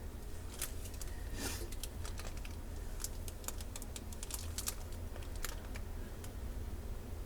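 Wood fire in a fireplace crackling, with irregular sharp pops and snaps, several a second, over a steady low hum.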